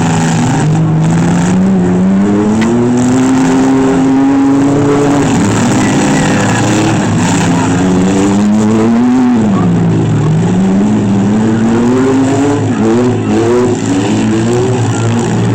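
Engines of demolition-derby minivans, pickup trucks and SUVs running loud and revving up and down over and over, several engines at once, as the cars back up and charge at each other.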